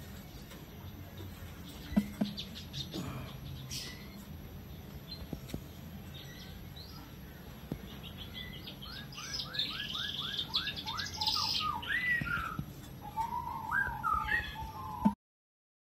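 A bird chirping in the background: a fast run of short rising chirps, about six a second, then more varied chirps, cut off suddenly near the end. A sharp click comes about two seconds in, over a low steady background rumble.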